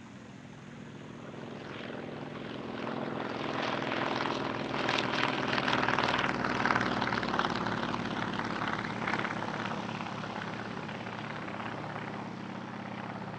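Nanchang CJ-6A trainer's radial engine and propeller passing overhead in a flypast. It grows louder to a peak about halfway through, then slowly fades as it goes away.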